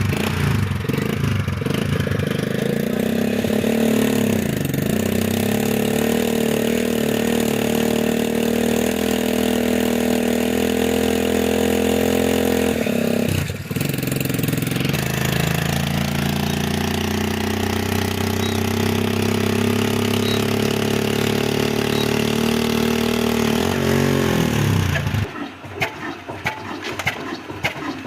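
A 22 HP diesel engine being started by a 100 cc motorcycle engine: a steady pitched engine sound, broken briefly about halfway through, that winds down in pitch and stops a few seconds before the end. An uneven, rougher noise follows.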